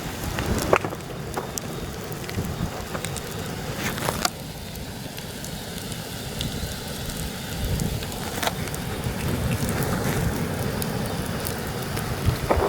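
Wood campfire crackling with scattered sharp pops. Heavy wind buffets the microphone as a steady low rumble, which swells for a few seconds in the second half.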